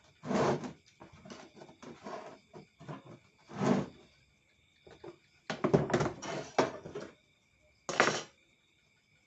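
Irregular handling clunks and scrapes: separate knocks about half a second in and near four seconds, a quick cluster of rattling knocks from about five and a half to seven seconds, and a last clunk near eight seconds, over a faint steady whine.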